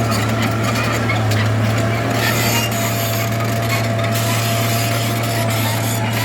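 Bulldozer at work: its diesel engine runs with a steady low drone and a thin steady whine, over a rough scraping, grinding noise with scattered clicks.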